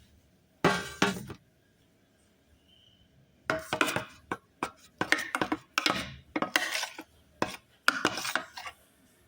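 Slime being stirred in a container with a utensil: irregular scraping and clattering strokes, a short burst about half a second in, then a longer run of strokes from about three and a half seconds until near the end.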